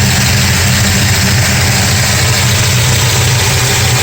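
A 1969 Dodge Charger's 440 big-block V8 idling steadily while it warms up, with no banging heard: its exhaust header bolts, which had backed off, have just been re-torqued.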